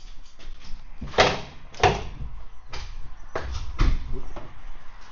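A series of sharp knocks and bangs, about five in all, the loudest two about a second and two seconds in.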